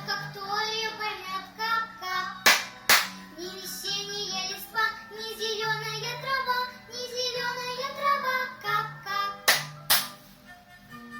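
A young girl singing a children's song over instrumental accompaniment, with a pair of quick hand claps about two and a half seconds in and another pair near the ten-second mark. Her singing stops shortly before the end while the accompaniment carries on.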